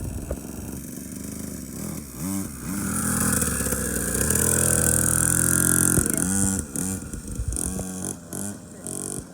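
2021 SYX Moto 50cc kids' motorcycle engine running, its pitch rising and the sound getting louder as it comes close for a few seconds, then revving up and down near the end.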